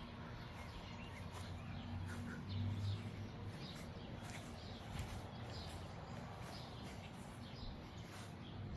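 Faint outdoor ambience with scattered short bird chirps over a low steady hum.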